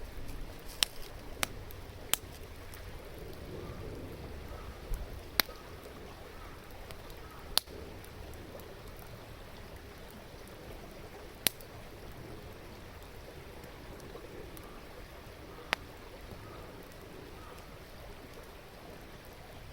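Wood campfire crackling, with about seven sharp pops scattered through, over the steady rush of a stream.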